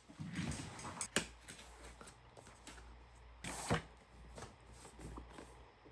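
Hands unpacking and handling the parts of a helmet intercom: rustling packaging and light plastic clicks, with a louder rustle about three and a half seconds in.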